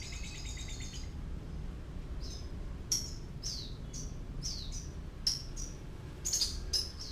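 Lovebird chirping: a fast buzzy trill for about the first second, then a run of short, sharp chirps, each falling in pitch, about two a second. A low steady hum lies underneath.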